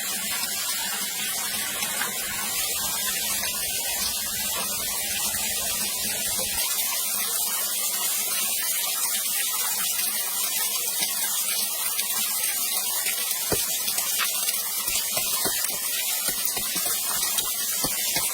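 Steady hiss of rushing, spraying water, with a few sharp clicks in the second half.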